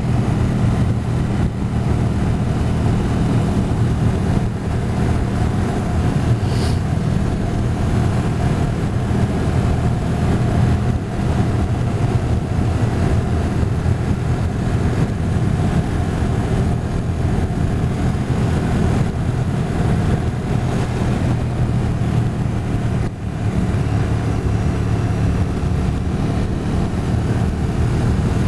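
Motorcycle engine running steadily at cruising speed, with wind and road noise from the moving bike.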